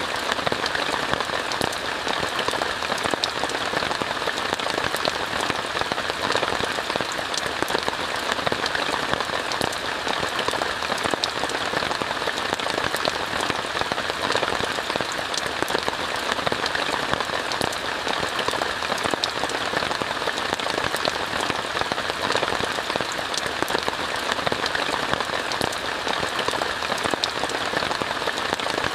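Steady rain falling on a tent: an even hiss dotted with many small drop ticks.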